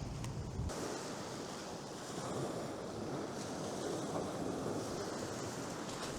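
Sea surf washing on the beach with wind on the microphone. Low wind buffeting drops away about a second in.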